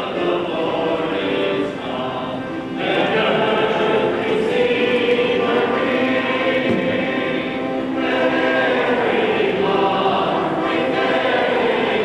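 A choir singing in sustained phrases, with a new phrase beginning about three seconds in and another near eight seconds.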